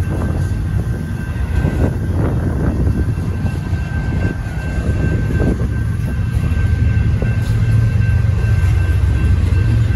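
Union Pacific double-stack intermodal freight train rolling through a grade crossing: a steady low rumble of the cars with occasional clicks and clunks from the wheels, and a thin steady high tone above it. The rumble grows a little louder in the second half.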